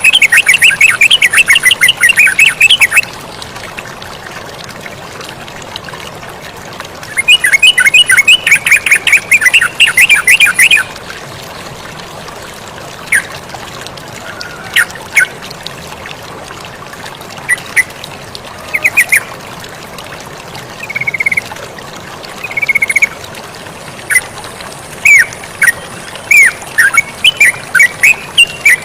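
Yellow-vented bulbul (terucukan) calling in fast runs of rapid notes, at the start and again from about seven to eleven seconds in, then scattered short notes. Under it runs a steady sound of flowing water.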